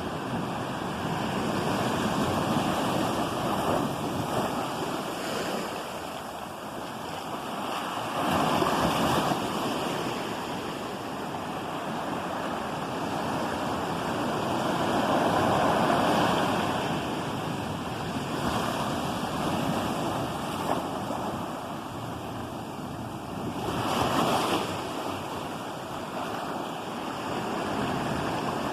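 Ocean waves breaking and washing on the shore, a steady rush of surf that swells and falls back every few seconds, with some wind on the microphone.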